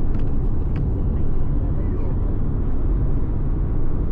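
Steady low rumble of a car on the move, road and engine noise heard from inside, with a few faint clicks in the first second.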